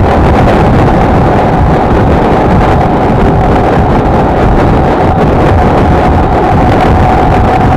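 Wind rushing over the microphone at riding speed, with the steady drone of a Honda XLR125R's single-cylinder four-stroke engine holding an even pitch underneath.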